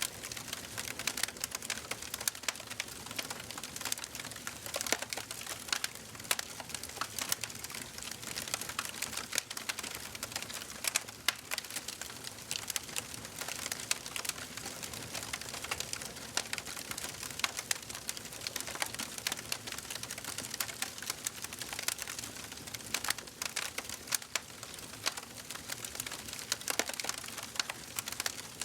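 Wood fire burning in a fireplace: dense, irregular crackling and popping over a steady low hiss of the flames.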